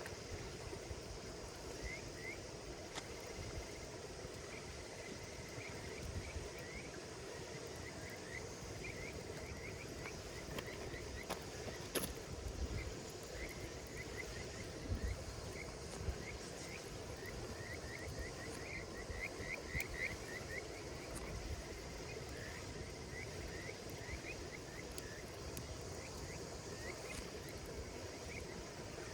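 A campfire crackling, with a sharp pop about twelve seconds in and a few fainter ones, over a steady chorus of insects and many short repeated chirps.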